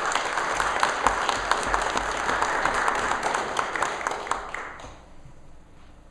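Congregation applauding after a baptism: a burst of many hands clapping that dies away about five seconds in.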